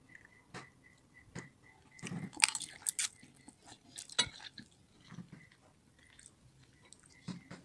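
A person chewing food, with irregular wet clicks and smacks of the mouth. The busiest and loudest stretch comes about two to three seconds in.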